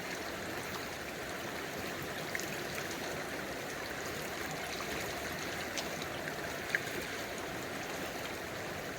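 Steady rush of running water, like a stream, with a few faint ticks.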